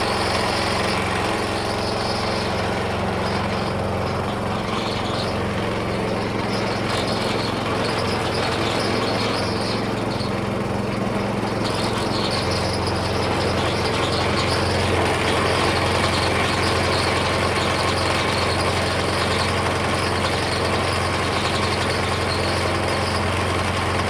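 Small engine of a vintage gold trommel wash plant running steadily, driving the plant's water pump. Its low drone shifts about halfway through.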